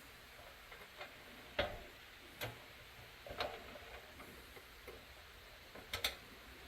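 A handful of short, irregular clicks and light taps, spaced about a second apart with a quick double tap near the end.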